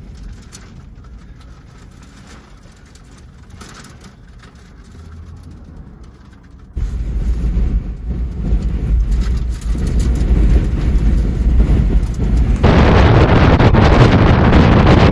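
A faint rumble with a few light clicks at first. About seven seconds in, strong wind buffeting the microphone cuts in suddenly, and near the end it jumps louder again to a steady roar of gusty wind noise.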